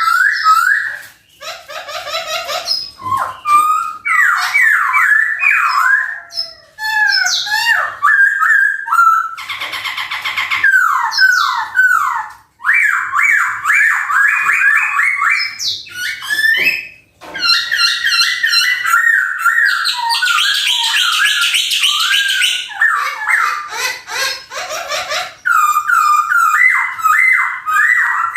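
A Chinese hwamei (poksay Hongkong) singing loudly and almost without pause: fast runs of varied, sliding whistled notes repeated in phrases, broken by a few brief gaps.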